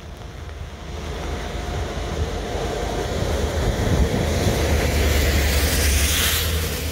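Diesel locomotive running on the main line, its low engine rumble growing louder as it approaches and passes, with wind noise on the microphone.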